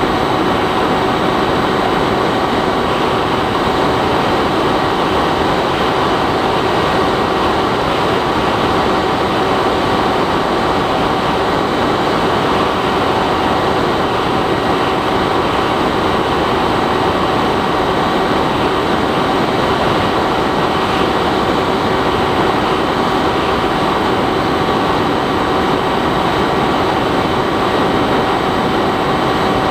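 Bixler 3 RC plane's brushless electric motor and pusher propeller running steadily in flight: a constant, unchanging whine over wind rush, heard from the camera mounted on the plane.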